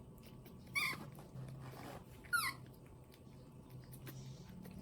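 Baby monkey giving two short high squeaks about a second and a half apart, the second sliding quickly down in pitch.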